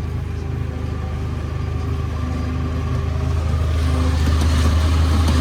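Heavy farm vehicle engine running with a steady low drone, heard from inside the cab, growing louder toward the end as more load and machinery noise come in.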